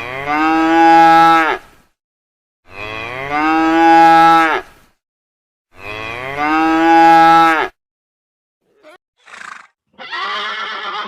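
A cow mooing three times, each moo a long, pitched call of under two seconds, the three identical, as if one moo were repeated. Near the end come two short, faint sounds, then a rougher, different sound.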